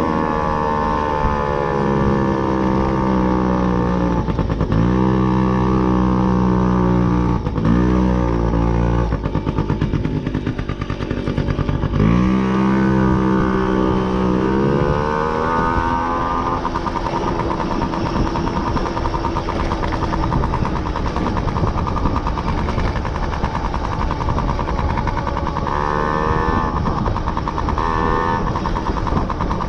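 Motorcycle engine on the move, its pitch climbing several times with drops in between as it accelerates, then running steadily at a more even pitch for the second half.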